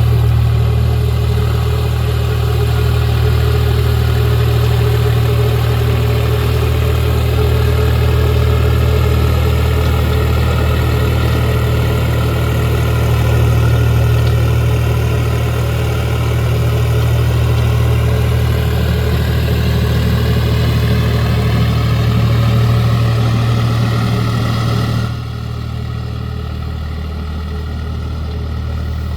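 Swaraj 744 tractor's three-cylinder diesel engine running steadily with a deep, even drone. It turns quieter about 25 seconds in and stays lower for the last few seconds.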